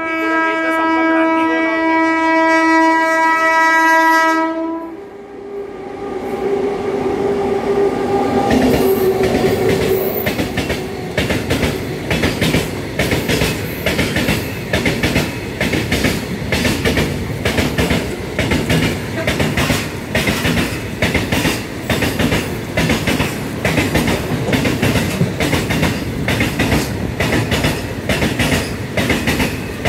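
Locomotive horn sounding one long blast of about five seconds, then a freight train of BCNA covered wagons passing close by, its wheels clattering over the rail joints in a steady, rapid rhythm.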